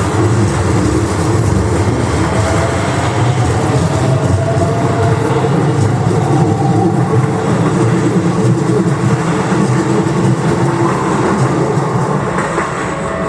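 Keikyu 1000-series electric train running by, a loud steady rumble of wheels on rail with a faint rising motor whine.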